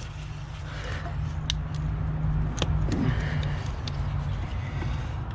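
A steady low engine hum with a few sharp clicks.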